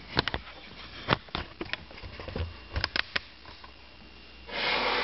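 Light clicks and knocks of kitchen items being handled, then a brief hiss near the end.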